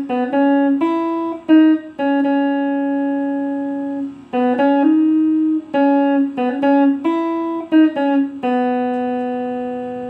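Guitar playing a single-note melody line, plucked notes one after another, with a final long note left ringing and fading near the end.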